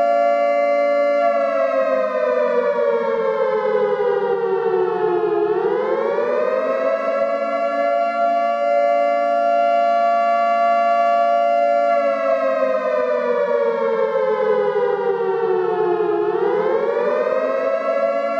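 Civil defense siren sounding a nuclear alarm with a wail that repeats about every ten seconds. A steady two-note chord is held for several seconds, then slides slowly down in pitch and sweeps quickly back up, twice.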